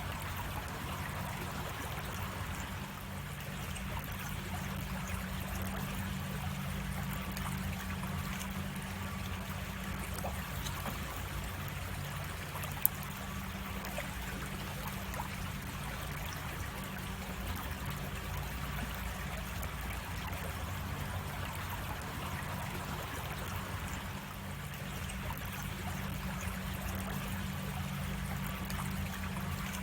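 Creek water flowing steadily over a small cascade, a continuous rush and trickle. A single sharp click about 13 seconds in.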